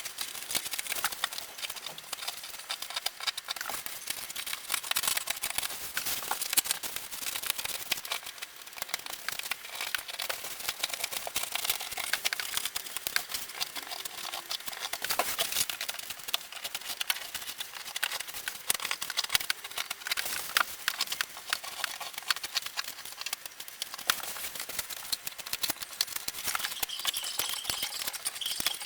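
Continuous dense scratching and crackling, made of many small rapid clicks.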